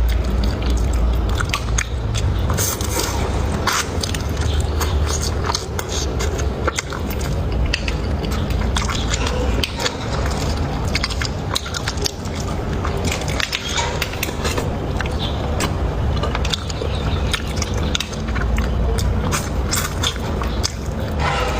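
Close-miked chewing and crunching of spicy chicken heads: a steady run of wet clicks, smacks and crackles over a low rumble.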